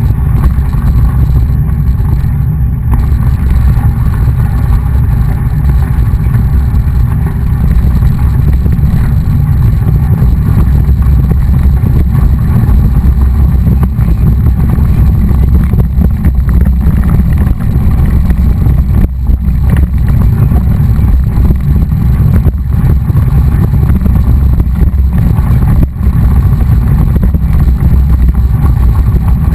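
Steady, loud wind rumble buffeting the microphone of a camera riding along on a moving mountain bike, with a few brief dips near the end.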